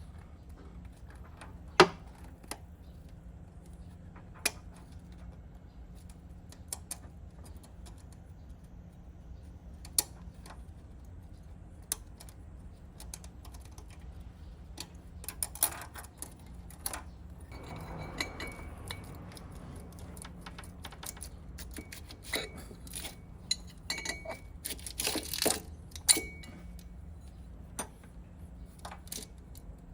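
Scattered metal clinks and knocks of tools and parts being handled, with a sharp knock about two seconds in and a busier run of clinking in the second half.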